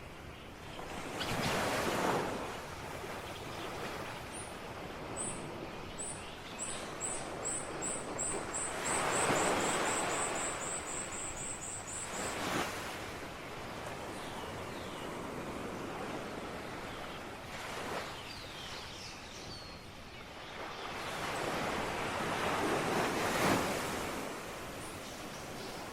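Ocean waves breaking on a shore: a steady wash of surf that swells into a loud break every few seconds, five times in all. Partway through, a high, quick series of chirps speeds up into a trill and stops.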